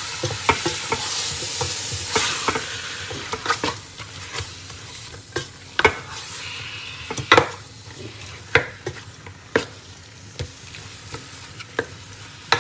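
Chicken frying with onions and spices in a hot pot, sizzling loudest in the first few seconds and then dying down, while a spoon stirs and knocks against the pot now and then.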